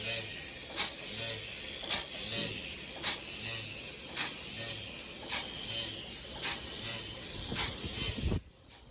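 Open-die ball-head screw forming machine running, with a short hissing stroke repeating evenly about once every second over a steady machine background. The sound drops away abruptly near the end.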